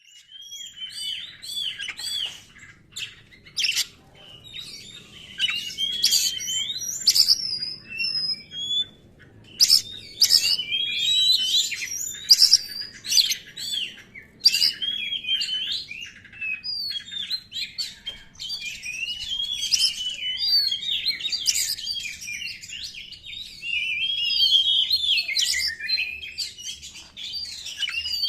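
Oriental magpie-robin (kacer) singing a long, fast, varied song of rising and falling whistles mixed with sharp clipped notes, broken by a few short pauses. It is the rapid, erratic delivery that keepers call 'konslet'.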